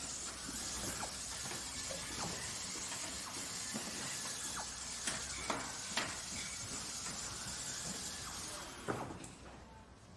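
Industrial machinery running with a steady hiss, with a few sharp metallic clicks or knocks about five to six seconds in and another near nine seconds, after which the noise drops away.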